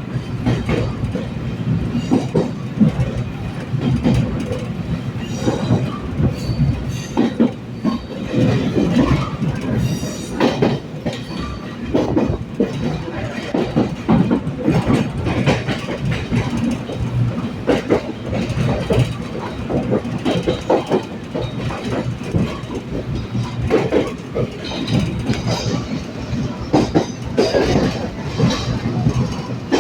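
Passenger train running along the track: a steady rumble with many irregular clacks and knocks of wheels over rail joints.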